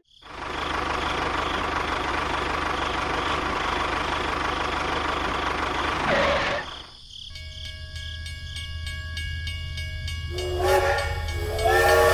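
Train sounds: a steady rushing noise of a train running, ending with a short rising sweep, then a steady high tone, then repeated train horn blasts over the last couple of seconds.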